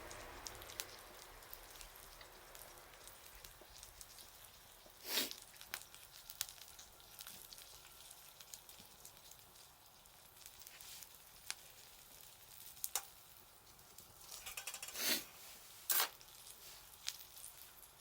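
Wood bonfire crackling and sizzling faintly, with scattered sharp pops. A few louder short noises come about five seconds in and twice near the end.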